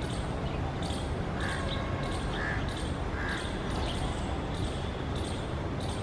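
Steady low outdoor rumble with faint, short bird chirps repeating about twice a second, and a few faint higher calls in the first half.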